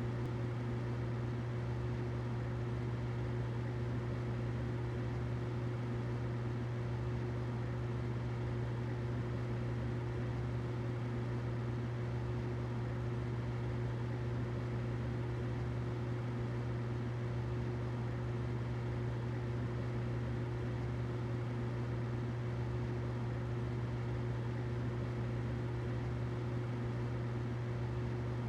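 Humidifier running steadily: a low hum with a fainter steady tone above it and a soft hiss.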